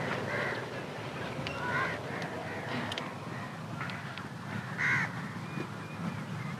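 Birds calling outdoors: a few short, harsh calls, the loudest about five seconds in, over a steady low rumble.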